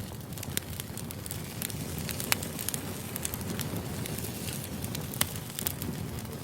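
Wood fire burning: a steady low rumble of flames with irregular sharp crackles and pops from the burning logs, the loudest pops about two and five seconds in.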